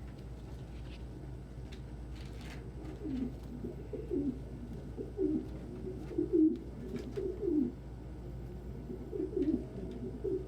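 Domestic pigeon cooing: a run of low, rolling coos that starts about three seconds in, breaks off briefly, then starts again near the end.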